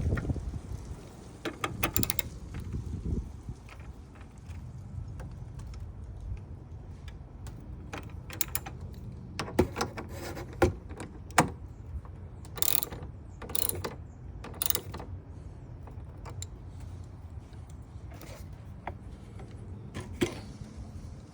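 Ratchet socket wrench clicking in short runs as bolts are driven in, with scattered knocks and clatter.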